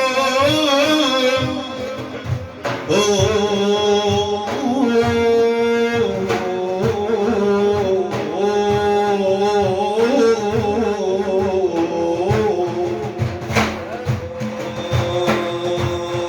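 Sufi devotional praise singing (madih): a long, held and ornamented vocal line without clear words over a steady drum beat.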